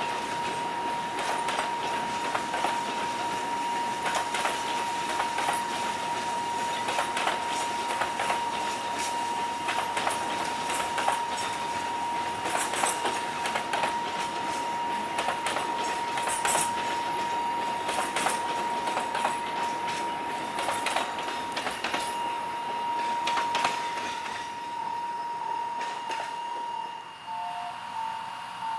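Train passing with wheels clicking over rail joints under a steady rumble, and a steady high tone that breaks into short pulses near the end as the train moves away.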